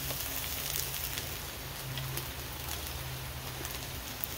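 Shredded hash brown potatoes sizzling steadily in oil in a nonstick frying pan on a butane camp stove, with faint crackles throughout and a low hum underneath.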